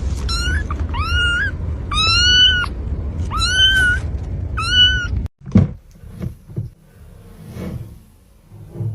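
A cat meowing five times in quick succession, each meow about half a second long, over a low rumble. About five seconds in the sound cuts off and a few soft thumps follow.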